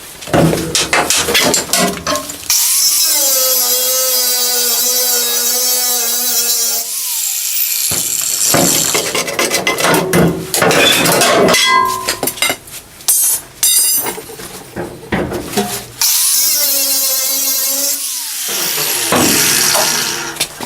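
A cut-off wheel is cutting through steel bracing bars in two long runs. Each run is a steady high whine with hiss, and each spins down when the trigger is released, a few seconds in and again near the end. Between the runs come sharp metal knocks and clatter.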